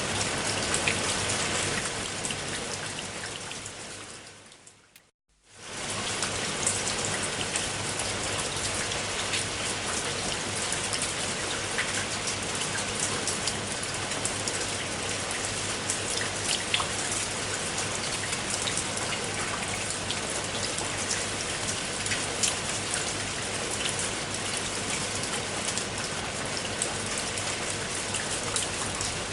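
Steady rainfall with scattered individual drops ticking. About two seconds in it fades out to a moment of silence near the five-second mark, then fades straight back in and carries on steadily.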